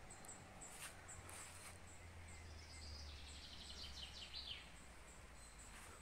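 Faint forest ambience, with a small songbird's rapid trill of high notes lasting about two seconds around the middle. Faint high chirps repeat throughout, with a couple of soft clicks about a second in and a faint low rumble.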